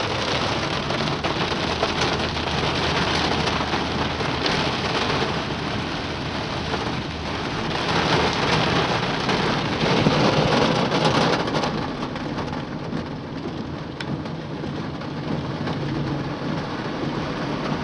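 Heavy rain pouring down in a steady downpour, swelling a little around ten seconds in and then easing slightly.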